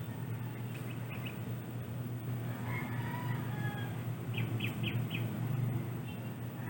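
Birds chirping in short calls, with a quick run of four chirps just past the middle, over a steady low hum.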